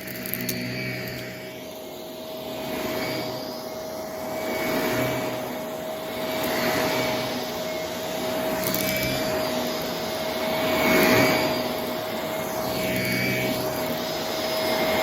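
Vacuum cleaner running with a steady motor whine, its sound swelling and falling every two seconds or so as it is pushed back and forth.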